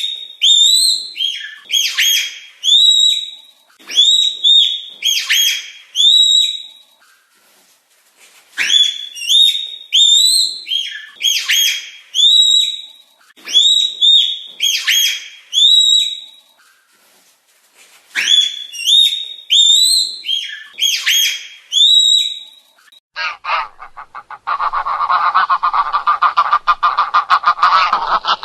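Bird calls: high, hooked calls several a second in three bouts with short pauses between them, giving way near the end to a faster, lower, buzzy run of calling.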